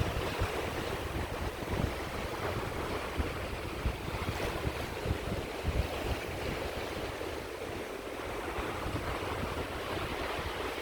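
Sea waves washing steadily onto the shore, with gusts of wind buffeting the microphone as an uneven low rumble.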